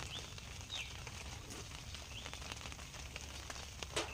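Faint outdoor ambience with a low rumble, and a bird giving several short, high chirps; a single sharp click near the end.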